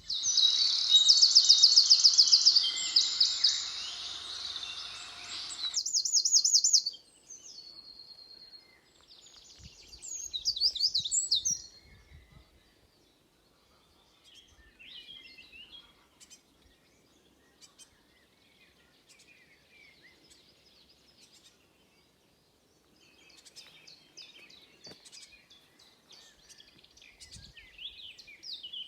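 Wild songbirds singing in woodland: a loud, close song of rapid trills for the first six seconds, another burst of song around ten seconds in, then fainter scattered chirps that grow busier again near the end.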